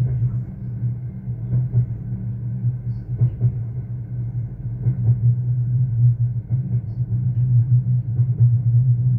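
Steady low rumble of a Merseyrail Class 777 electric train running on the line, heard inside the passenger saloon, with faint knocks from the track now and then.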